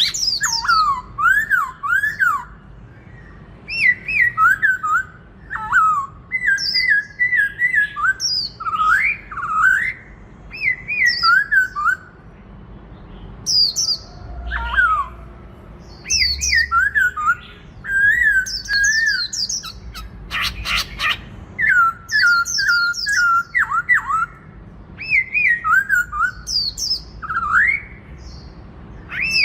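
Black-throated laughingthrush singing: loud whistled phrases sliding up and down in pitch, in bursts of a second or two separated by short pauses. About two-thirds of the way through there are a few sharp clicks.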